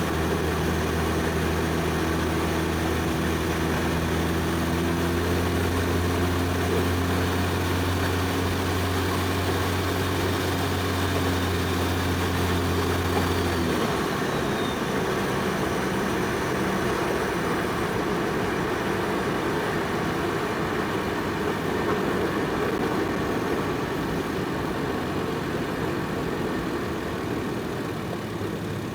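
Single-turbo Toyota 1JZ inline-six engine running steadily while the car cruises, with an even low drone. About halfway through the drone drops away, leaving mostly tyre and road noise.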